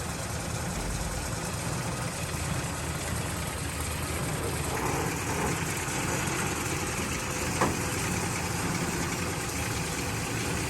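Toyota Land Cruiser FJ45 engine idling steadily just after a cold start, with one short click about two-thirds of the way through.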